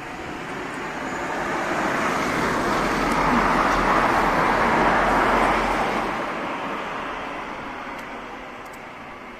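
A road vehicle passing by: a steady rush of traffic noise that swells to a peak about four seconds in, then fades away.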